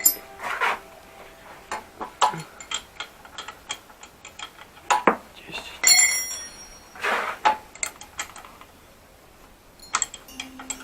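Metal tools and parts clinking and knocking: an irregular run of sharp clicks and clanks, a few of them ringing briefly.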